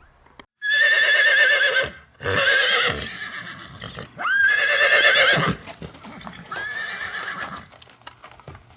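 An animal calling: four loud, wavering, high-pitched cries in a row, each about a second long, the last one softer.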